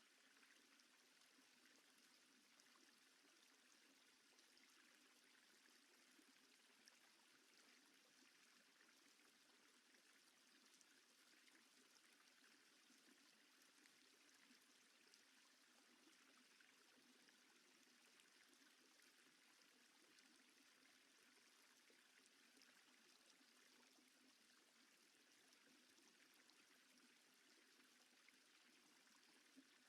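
Near silence: a faint, steady hiss with no distinct sound events.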